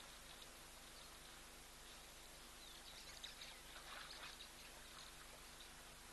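Near silence: steady faint background hiss and hum, with a few faint short bird chirps between about three and four and a half seconds in.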